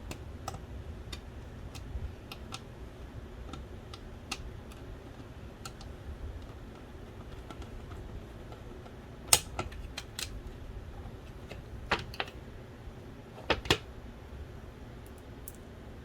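Light scattered clicks and taps of the small plastic and metal parts of an original Xbox Philips DVD drive being handled. A sharp, louder click comes a little past halfway, followed later by two close pairs of louder clicks.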